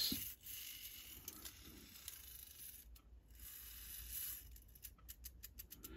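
Faint handling of clock movement parts at the bench: light scraping and rubbing, then a quick run of small clicks in the last second or so.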